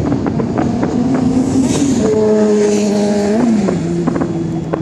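Distant fireworks popping and crackling in quick, irregular succession over a steady rumble. A loud droning tone steps down in pitch twice, about two seconds in and again near three and a half seconds.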